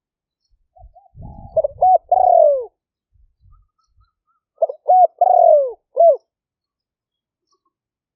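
Spotted dove cooing: two calls about three seconds apart, each a few short clipped notes followed by a longer falling coo.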